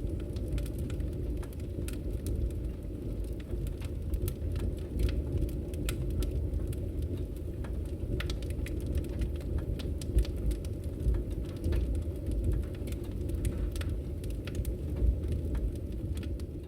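Firewood burning in a Victory Camp Taiga camping wood stove: a steady low rumble of the fire with frequent sharp crackles and pops from the logs.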